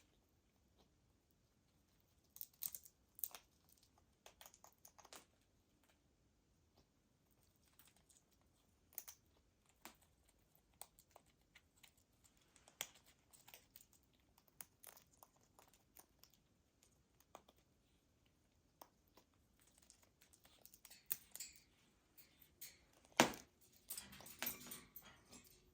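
Amazon parrot cracking and chewing an almond with its beak: scattered sharp cracks and crunches, coming thicker near the end with one loud crack.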